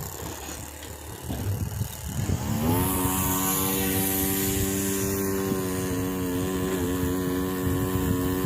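Electric motor and propeller of a battery-powered RC biplane whining; about two and a half seconds in, the pitch rises as the throttle opens, then holds steady.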